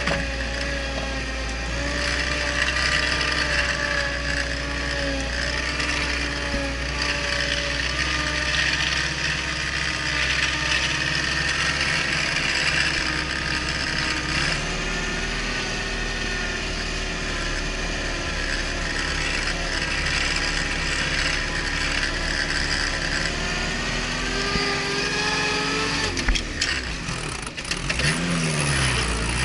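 Off-road vehicle's engine and drivetrain running under way, with a steady mechanical rattle and whine. Near the end the engine note drops and climbs again, as in a gear change.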